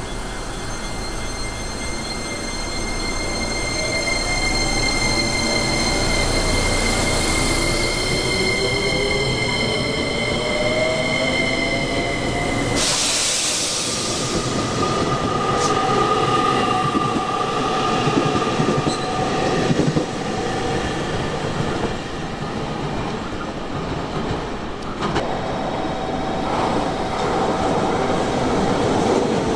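Electric train at a station: its motor whine rises steadily in pitch as it gets under way, over a high steady squealing tone. About 13 seconds in the tone cuts off with a short burst of hiss, and steadier whining tones continue, with a single clack about 25 seconds in.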